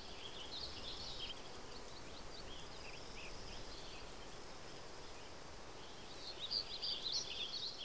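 Faint natural ambience with scattered short, high chirps, growing busier near the end.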